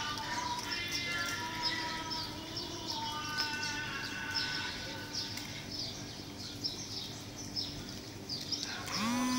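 Quick, repeated high chirps, two or three a second, like a small bird, over quiet background music with held notes.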